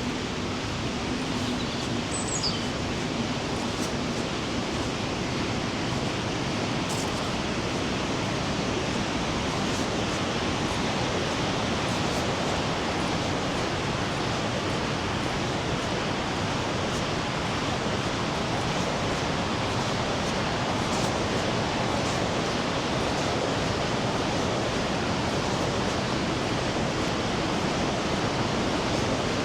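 Rhine Falls waterfall: a steady, even rush of heavy falling water.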